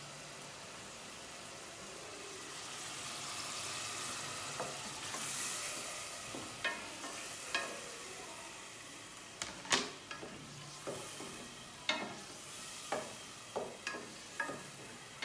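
Tomato slices frying with a steady sizzle in a steel pot, the sizzle swelling about four seconds in. In the second half a wooden spatula stirs the pot, knocking against the steel about ten times at uneven intervals.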